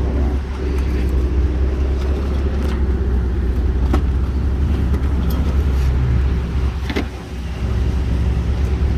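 Car engine idling: a steady low rumble that dips briefly near the end, with a couple of short clicks.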